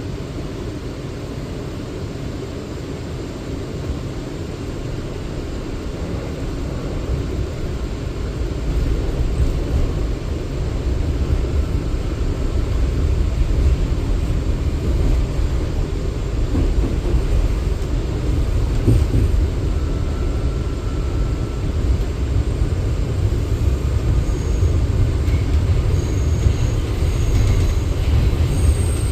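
R179 subway car running between stations, heard from inside: a steady rumble of wheels on rail and motors that grows louder over the first ten seconds or so and then holds.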